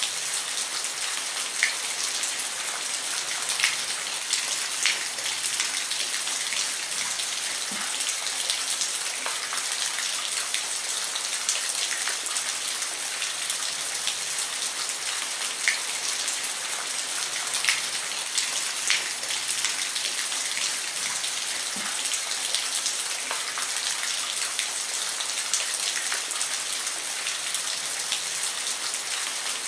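Steady rain falling on a roof: a dense, even hiss with individual drops ticking sharply here and there.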